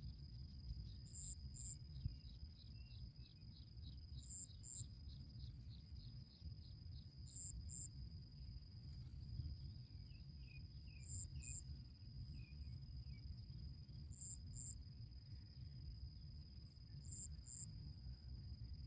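Faint insect sound: a steady high-pitched buzz, with a pair of short, very high chirps about every three seconds. A run of quick ticks, about four a second, comes in the first few seconds, a few softer chirps follow around the middle, and a faint low rumble lies underneath.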